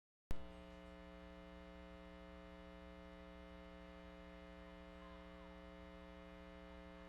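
A sharp click about a third of a second in, then a faint, steady electrical mains hum made of several steady tones.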